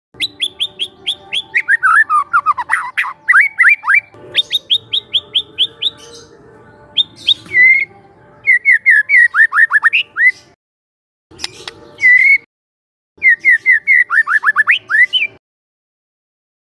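Young wild white-rumped shama singing: phrases of fast repeated high notes and downward-sweeping whistles, broken by short pauses.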